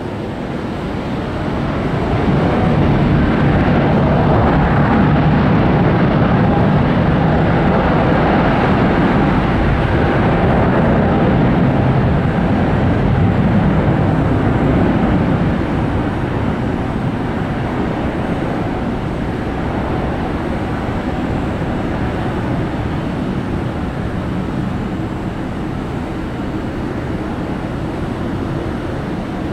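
Jet airliner engines rumbling as a plane passes, swelling about two seconds in, loudest until about halfway, then easing to a lower steady rumble.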